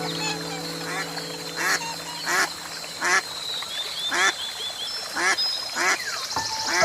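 A duck quacking repeatedly, a run of about eight short quacks spaced well under a second apart, with faint background music fading out at the start.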